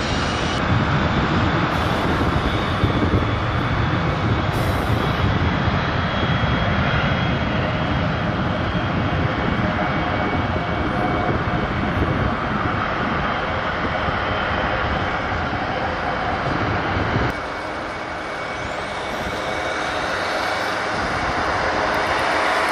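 Jet aircraft engines running with a steady whine. The sound changes abruptly about seventeen seconds in, losing its low rumble, then builds louder again near the end.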